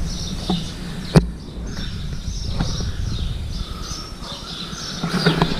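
Small birds chirping faintly over a low outdoor rumble, with one sharp click about a second in.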